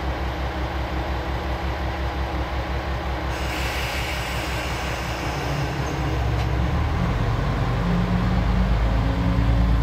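A passenger railcar at a platform: its engine throbs at idle, a hiss of air comes in about three seconds in, and from about six seconds the engine note rises and grows louder as the train starts to pull away.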